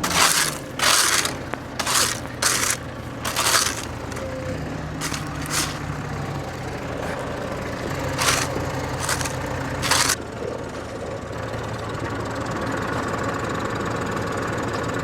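A tractor engine running steadily, its pitch shifting a couple of times. Over it come about ten short, harsh scraping or crunching bursts in the first ten seconds, then only the engine.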